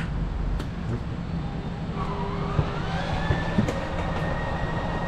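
Travel-trailer slide-out room mechanism being run out by its electric motor. A click comes at the start, then about two seconds in a whine rises in pitch and settles into a steady drone as the slide room moves out.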